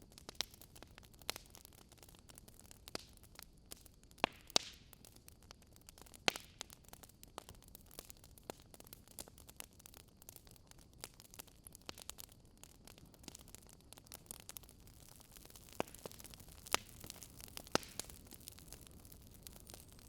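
Wood fire crackling: sharp snaps and pops at irregular intervals over a soft steady hiss, a few of them louder than the rest.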